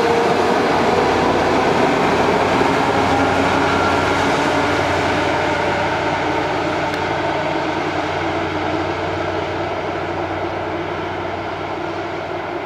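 Electric commuter train running past on the rails: a steady rumble of wheels with a faint whine that falls in pitch in the first few seconds. The whole sound fades gradually as the train pulls away.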